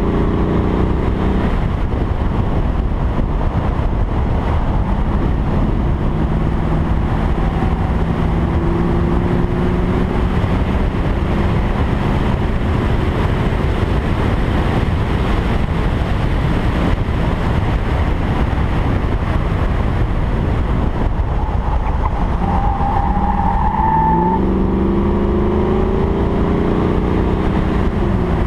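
1986 Pontiac Firebird Formula's 5.0-litre TBI V8 running hard on a track lap, under heavy wind and road rush on an outside microphone. Revs fall at the start, hold fairly steady in the middle, then climb for several seconds near the end before dropping.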